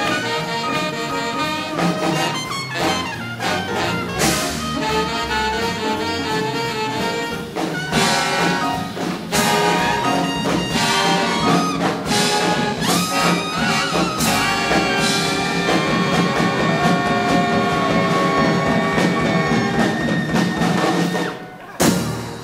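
Big band jazz orchestra playing a swing-era hot-jazz number, with trumpets, trombones and saxophones. It winds up on a long held chord, then one short final hit near the end.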